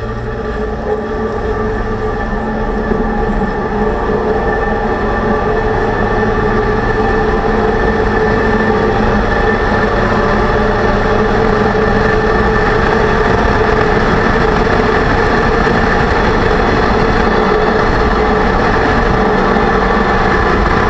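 2006 Range Rover Sport on the move, a steady drivetrain whine over a low road rumble, growing louder over the first several seconds and then holding. The noise is left after a rebuild of the differential with all new bearings, and the owner suspects he set the pinion bearing preload too tight.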